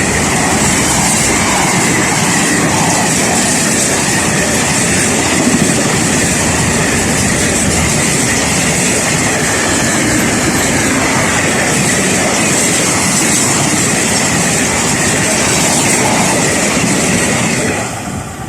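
A train passing close by, with a loud steady rumble and rattle of wheels on rail that drops away sharply near the end as it clears.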